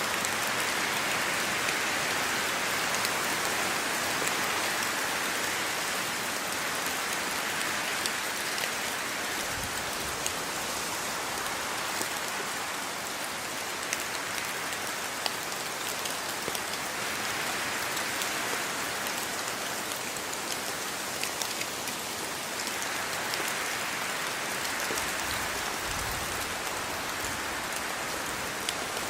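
Steady rain falling, a dense even hiss with many separate drops ticking on a surface.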